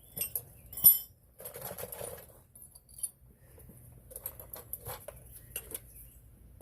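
Metal tools and parts being handled: two sharp, ringing clinks in the first second, then scraping and scattered lighter clicks and taps.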